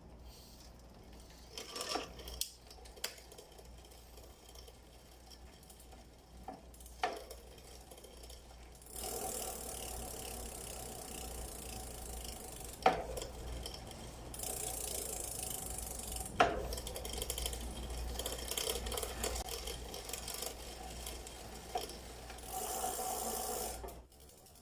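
Mountain bike drivetrain turned by hand: a few scattered clicks, then about nine seconds in the chain starts running steadily over the sprockets with a ratcheting whirr, broken by two sharp loud clicks, until it stops suddenly near the end.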